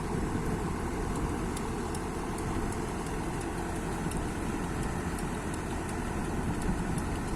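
Kobelco excavator's diesel engine running steadily, unchanging, as the repaired wheel is test-turned.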